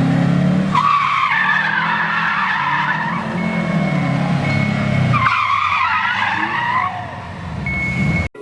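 Car tires squealing under power, twice, each squeal lasting about two seconds, over the steady low note of the engine. The sound cuts off abruptly just before the end.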